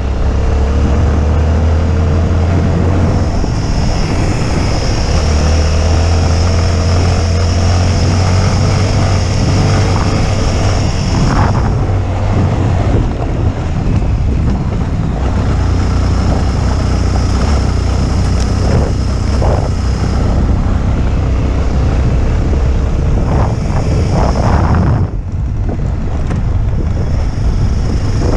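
Motorcycle riding along, its engine running with a heavy low rumble under strong wind noise buffeting the microphone. The sound eases briefly a couple of times, as if the rider rolls off the throttle.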